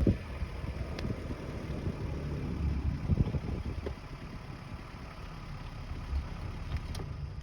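A vehicle engine idling with a steady low rumble, with a knock at the start and a couple of sharp clicks.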